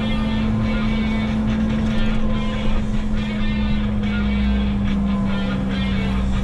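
Menzi Muck walking excavator's engine running steadily with a strong, even hum, which drops slightly in pitch about five seconds in.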